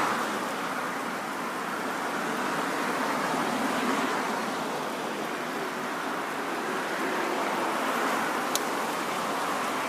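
Surf on the beach, waves swelling and easing in a steady wash, with one sharp click near the end.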